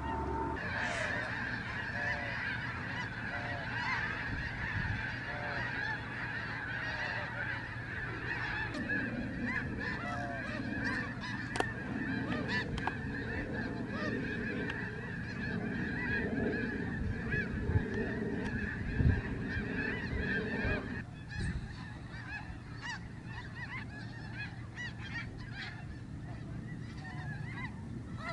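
A large flock of snow geese calling together, a dense continuous chorus of overlapping honks. A few sharp knocks sound in the middle. The chorus drops somewhat in loudness about two-thirds of the way through.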